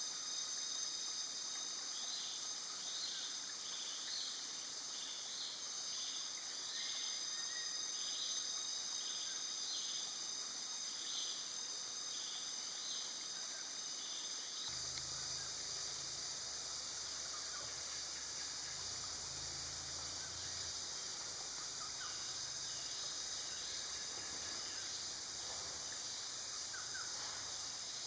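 Forest ambience: a steady high-pitched insect chorus. Over it, a bird gives a run of short, high chirps about every half second through the first half, and fainter scattered bird calls follow later.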